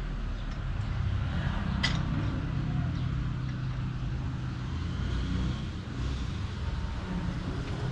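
Steady low rumble throughout, with a single sharp click about two seconds in.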